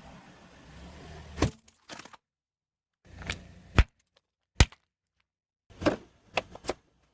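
A low rumble, then a series of about six sharp cracks and crunches as brittle objects break under a car tyre.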